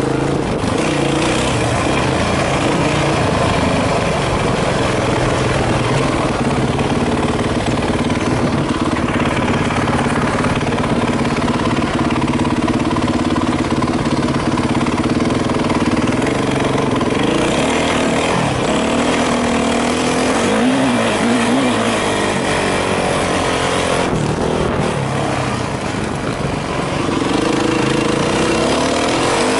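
Yamaha YZ450F dirt bike's single-cylinder four-stroke engine running under the rider, the revs rising and falling with the throttle and climbing again near the end.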